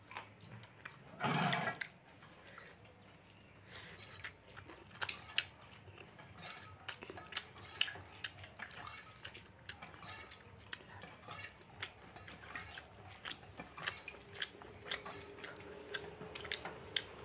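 Close mouth sounds of a person chewing rice and fish: wet, irregular smacking clicks several times a second, with a short louder rush about a second and a half in.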